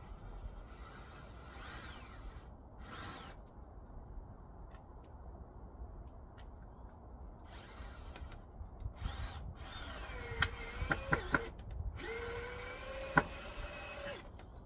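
Power drill running in several short bursts, its motor pitch rising in each burst, with a few sharp clicks in the later bursts, as it drives screws into the heat pump's roof panel.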